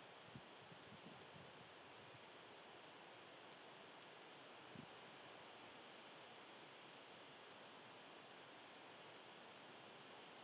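Faint, short, high chip notes from a small bird, about five of them at irregular intervals, over a low steady outdoor hiss.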